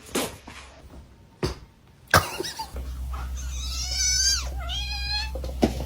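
A cat yowling: two long, wavering meows about three and four and a half seconds in, after a few sharp knocks.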